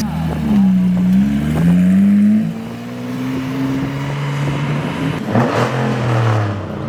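Car engines revving and accelerating past. The engine note dips about a second in, then climbs steadily for a few seconds, and a lower engine note falls away near the end.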